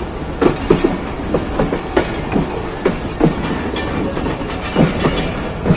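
Passenger train coach rolling along the track, heard from its open doorway: a steady rumble and rattle with irregular clacks of the wheels over the rails.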